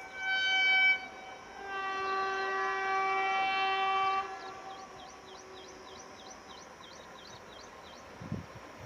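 Electric locomotive horn: a short high blast, then a longer, lower blast of about two and a half seconds. Birds chirp faintly afterwards.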